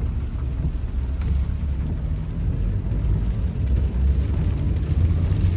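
Car driving along a street, heard from inside the cabin: a steady low rumble of road and engine noise.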